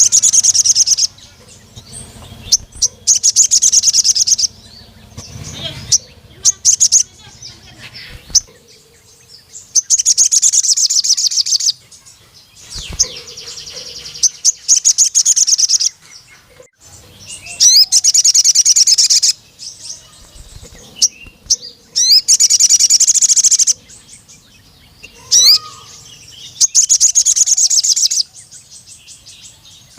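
Male crimson sunbird (sogon) singing in repeated bursts of rapid, high-pitched trilling. There are about eight bursts, each lasting one to two seconds, with short chirps in the gaps. This is the long, full-voiced song that keepers call "nembak panjang", used to call out a rival male.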